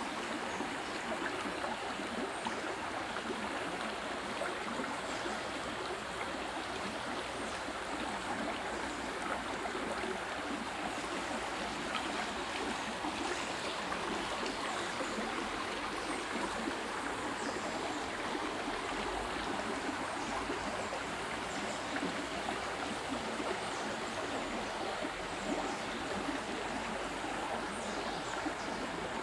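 Running water, a steady unbroken rush like a flowing stream.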